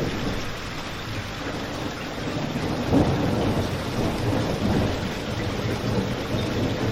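Steady rain falling, with a constant low rumble underneath and the odd sharp crackle of a wood fire, one standing out about three seconds in.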